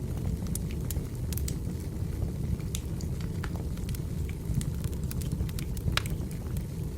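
Burning firewood crackling: irregular sharp pops and snaps over a steady low rumble of the flames.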